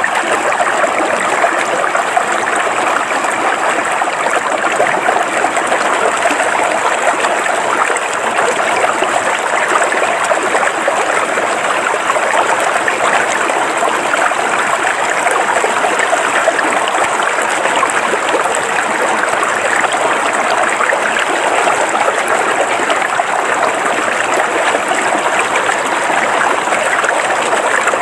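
River water flowing steadily over rocks, a continuous even rush with no breaks or changes.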